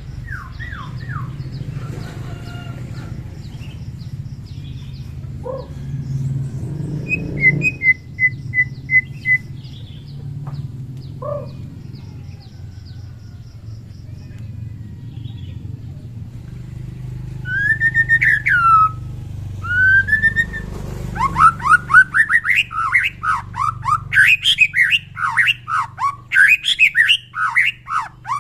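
White-rumped shama singing: scattered whistles and chirps at first, then, about three-quarters of the way in, a long, rapid run of loud sweeping whistled notes.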